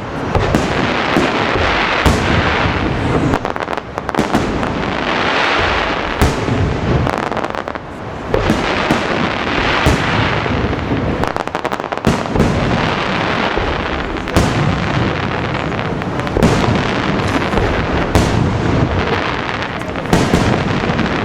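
Fireworks display in full swing: a dense, continuous barrage of shell bursts and crackling, the bangs overlapping with no pause.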